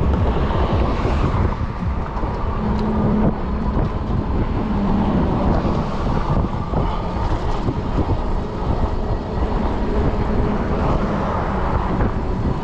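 Wind rushing and buffeting over the microphone of a fat-tire e-bike riding at speed, with rolling road noise beneath. A faint steady whine runs underneath throughout.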